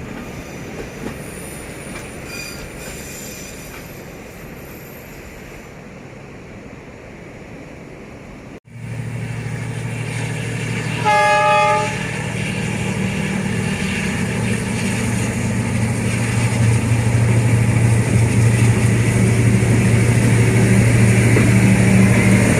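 A D19E diesel-electric locomotive and its passenger train running with a rumble of wheels on track. After a sudden cut, the locomotive's engine is heard close and steady, and its horn sounds once for about a second. The engine then grows steadily louder as the locomotive approaches.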